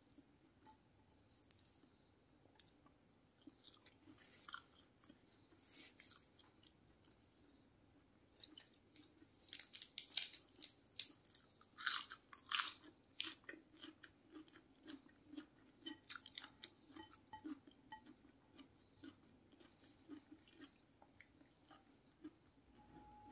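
Close-miked mouth sounds of eating fried chicken and rice: a few loud, crisp crunching bites about ten to thirteen seconds in, then steady chewing at about two chews a second.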